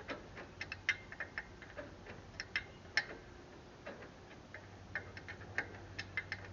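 Irregular small metallic clicks and taps of tools and parts being handled on a tractor engine, a few a second, over a faint steady low hum.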